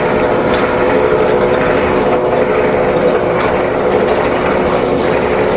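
Lathe running steadily under power, a loud mechanical hum with a few steady tones over a rough noise bed, while a pulley workpiece is turned; a faint high hiss joins about four seconds in.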